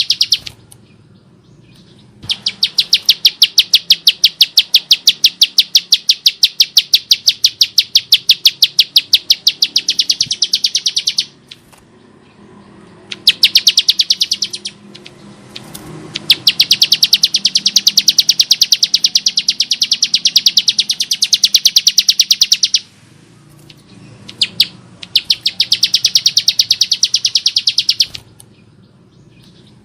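Bar-winged prinia (ciblek sawah) singing its harsh song: long runs of fast, evenly repeated high notes in bouts lasting several seconds, with brief pauses between bouts.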